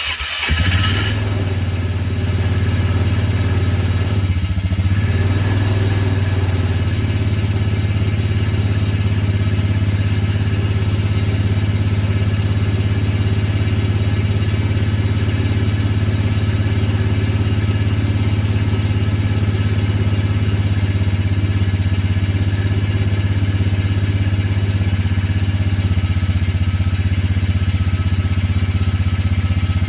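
Cold vehicle engine catching right at the start with a brief burst of noise, then settling into a steady idle that holds level.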